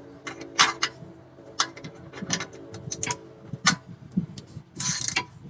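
A wrench clicking as it tightens an oil-pan drain plug: several sharp metallic clicks about a second apart, with a brief scraping rush near the end.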